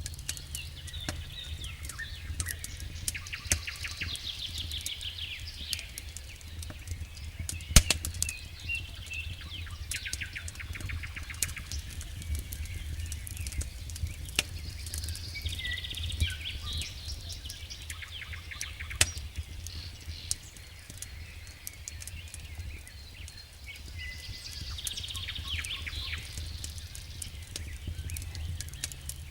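Wood fire burning in a fireplace: irregular crackles and sharp pops throughout, the loudest pop about 8 seconds in, over a steady low rumble of the flames. Several times there are short runs of rapid, high-pitched fizzing crackle.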